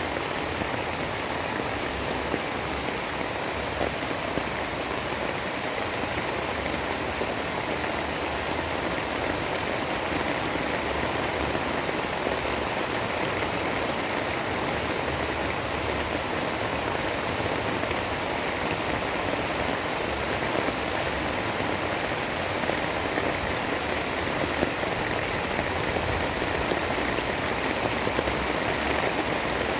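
Steady rain: an even hiss with a scattering of small drop ticks.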